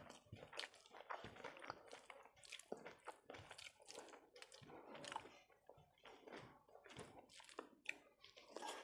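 Quiet, irregular wet chewing and mouth smacks while eating rice and curry, mixed with the soft squish of fingers kneading rice on a plate.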